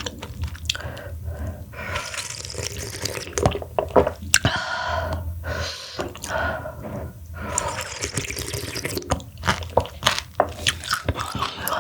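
Close-miked eating sounds: wet chewing and slurping of cooked giant mussels and their broth, with many small sharp clicks and smacks and a few longer slurps.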